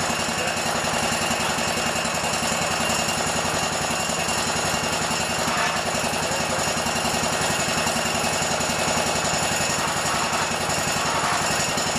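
Yard Machine lawn tractor's single small petrol engine running steadily at an even, fast pulsing beat.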